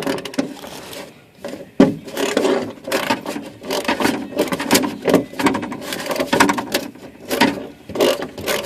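Hand work on the car's plastic covers and fasteners: irregular clicks, rattles and rubbing of tools and plastic parts being handled, busier from about two seconds in.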